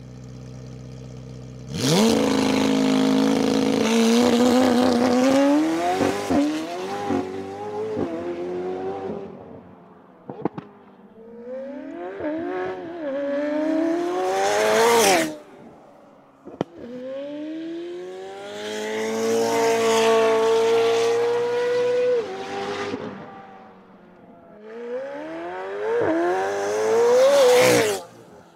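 McLaren Senna's twin-turbo V8 through a Novitec sports exhaust, revved in stationary blips: a sudden loud flare about two seconds in, several rises and falls in pitch, one long held rev, a single sharp pop in between, and a last rising rev that cuts off sharply near the end.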